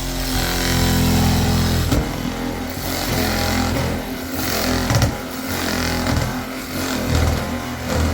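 A motor vehicle's engine running, starting abruptly and holding steady for about two seconds, then rising and falling unevenly.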